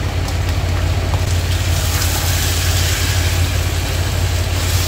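Mutton frying in a non-stick pan, sizzling as whisked yogurt is poured in and stirred with a wooden spatula; the sizzle grows brighter about two seconds in. A steady low machine hum runs underneath.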